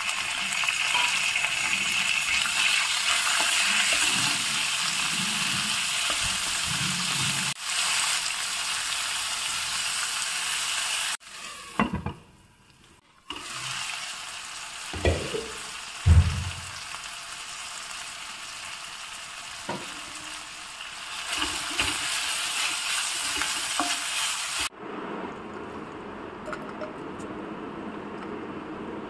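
Onions, tomatoes, peanuts and dried red chillies sizzling in hot oil in a stainless steel kadai, stirred with a few knocks of the spatula against the pan. Near the end the sizzling cuts off, leaving a low steady hum.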